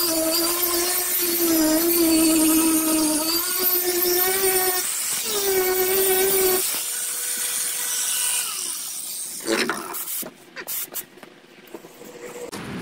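Handheld power grinder running under load, its motor whine wavering as it bears on the work. About seven seconds in its pitch rises and steadies as it comes off the work, then it winds down and stops. A few knocks follow near the end.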